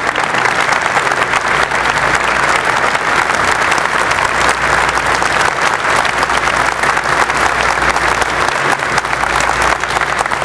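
Large audience applauding steadily, dense clapping with no let-up.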